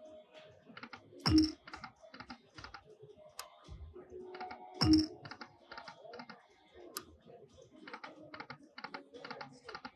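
Lightning Link slot machine spinning: a quick run of electronic reel clicks, with two louder hits about three and a half seconds apart as new spins play out.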